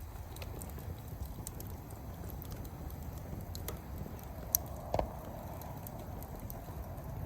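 Wood fire crackling, with scattered sharp pops over a low steady rumble; a louder pop comes about four and a half seconds in and a dull thump about half a second later.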